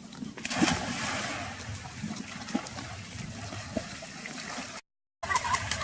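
Water sloshing and trickling: a steady rush that starts about half a second in, with a few soft knocks, then stops dead in a brief dropout near the end.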